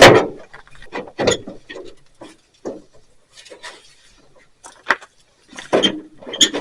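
Irregular knocks, clicks and rubbing of hand tools and metal parts being handled on a truck hood. A loud knock comes at the start, a sharp click about five seconds in, and a cluster of knocks near the end.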